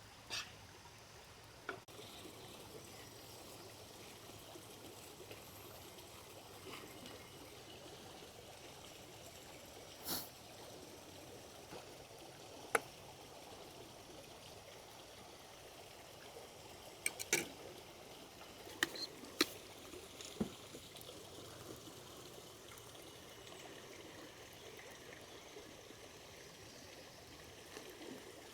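A creek flowing steadily, a soft even rush of water, with scattered sharp clicks and taps over it, several of them close together about two-thirds of the way through.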